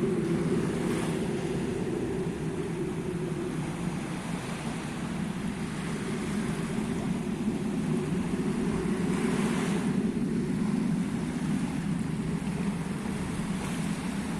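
Steady low hum of an airplane's engines, with small waves washing on the shore about a second in and again around nine to ten seconds.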